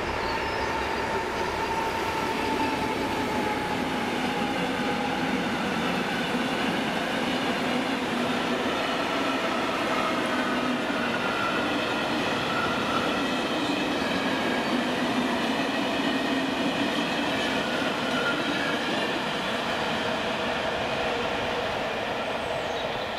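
Freight train of hopper wagons passing over a level crossing, its wheels rumbling and clacking on the rails at a steady loudness, with a faint squeal from the wheels.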